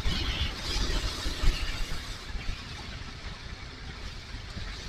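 Wind buffeting the helmet microphone over the low rumble of a motorcycle riding along, gustier in the first second or so, then steadier.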